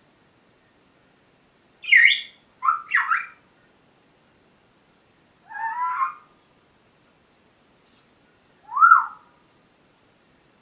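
Pet parrot calling and whistling: about six short separate calls with bending pitch, starting about two seconds in, among them a brief high whistle near the eight-second mark.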